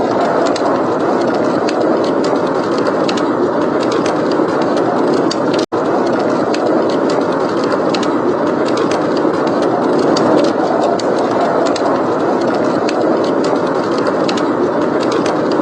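Blizzard wind blowing steadily with a wood fire crackling over it: a dense, even rush of wind dotted with many small crackles. The sound drops out for a split second about six seconds in.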